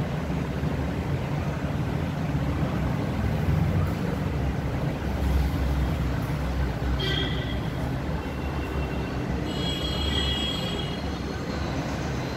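A passing train's steady low rumble, with brief high-pitched wheel squeals about seven seconds in and again around ten seconds in.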